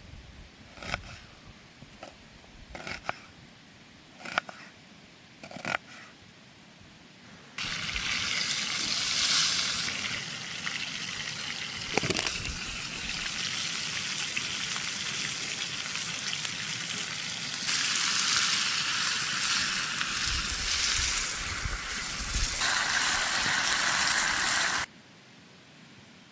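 Beef steak sizzling loudly in a hot frying pan over a campfire. The sizzle starts suddenly after a few light clicks and knocks and cuts off abruptly near the end.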